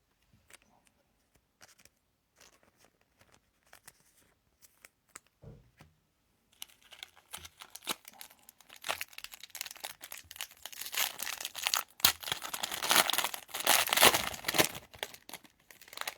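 A trading-card pack's foil wrapper being torn open and crinkled. The crackling starts about six and a half seconds in and gets louder toward the end. A few faint taps of handled cards come before it.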